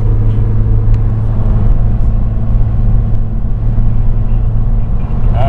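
Car driving, a steady low engine and road drone heard from inside the cabin.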